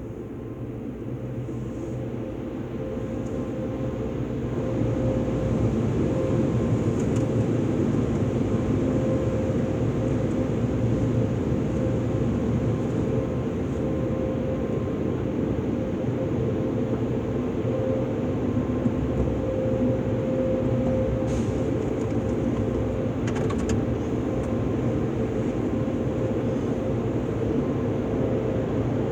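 Automatic soft-touch car wash machinery running: a steady low rumble with a constant hum, growing louder over the first five seconds or so.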